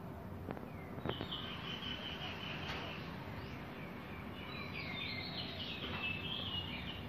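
A bird singing: a string of high chirps and quick trills that starts about a second in, over a steady low background hum. Two sharp clicks come just before the song begins.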